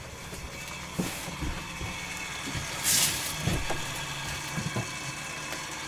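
An engine running steadily at idle, a low hum, with a short loud hiss about three seconds in.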